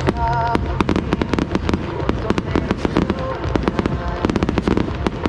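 Starmine firework barrage: a rapid, dense run of sharp bangs and crackles from shells bursting several times a second.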